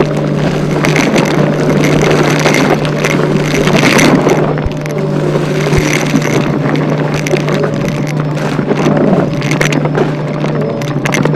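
Vacuum cleaner running at full power, being pushed quickly back and forth, its motor hum steady under a rushing airflow that swells and dips with each stroke.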